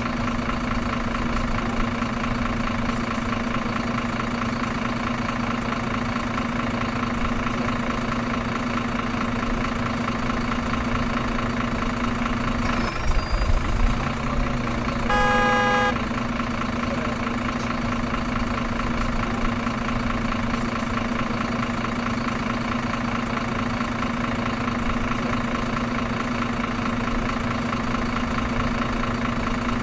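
Truck engine running at a steady drone throughout. About thirteen seconds in there are a few brief louder knocks, and just after them a horn sounds once for about a second.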